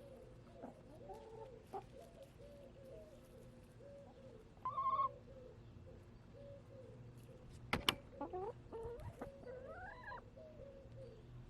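Backyard hens clucking softly and continuously in short low notes, with a louder, higher call about five seconds in. Near eight seconds comes a sharp tap, followed by a few rising calls.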